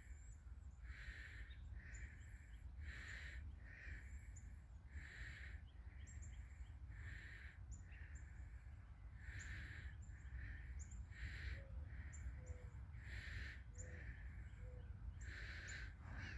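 Faint birdsong: a bird repeating a hoarse call about once a second, often a stronger call followed by a weaker one, with brief high chirps of small birds between, over a low outdoor rumble.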